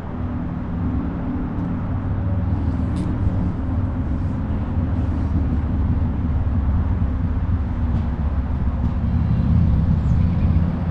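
Steady low rumble of a heavy engine with a humming drone, growing slightly louder as it goes on.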